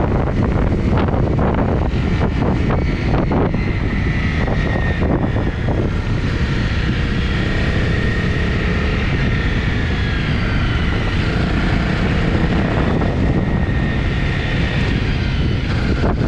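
Honda CRF250 single-cylinder four-stroke engine running steadily at cruising speed, with wind buffeting the microphone.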